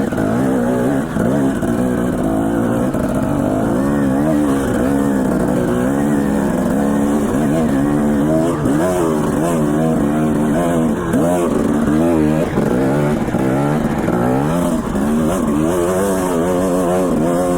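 Dirt bike engine running under load, its pitch rising and falling over and over as the throttle is opened and closed.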